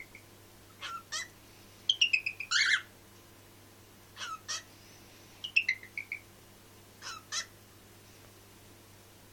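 Cockatiel mimicking speech in a high, squeaky voice, saying "hello" and "hello Pip" five times in short two-part phrases.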